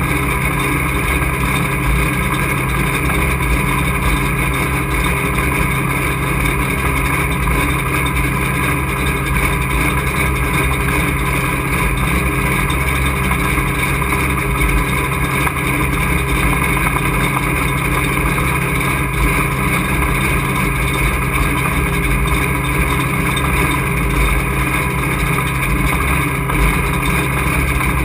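Engine of a Super Truck race truck running at a steady engine speed, heard from inside the cockpit; its pitch holds level without revving up or down.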